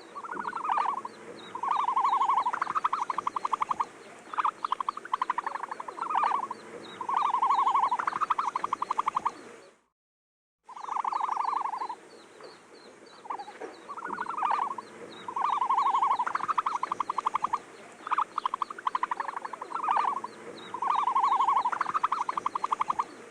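Animal calls: short held notes alternating with fast rattling trills, repeated again and again. They break off for about half a second near the middle, then a very similar run of calls starts again.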